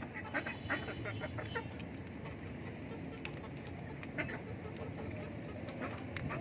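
Chickens and ducks feeding: a quick run of sharp pecking taps in the first second and a half, then scattered taps, over steady background noise.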